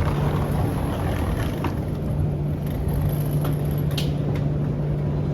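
Steady low mechanical hum over a constant wash of background noise, with a single short click about four seconds in.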